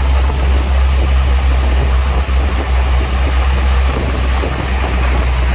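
Diesel engine of heavy earthmoving machinery running steadily, with a deep low hum under noise across the range.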